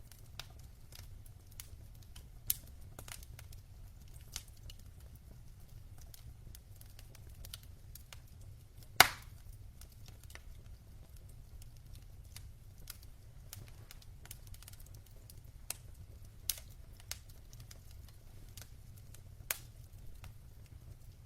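Burning logs crackling in a fireplace: scattered small snaps and ticks over a low steady rumble, with one loud pop about midway.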